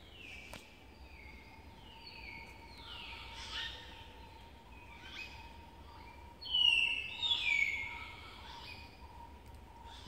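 Forest birds calling: a series of short whistled notes that slide downward, several overlapping, loudest and fullest about seven seconds in. A faint steady tone runs underneath.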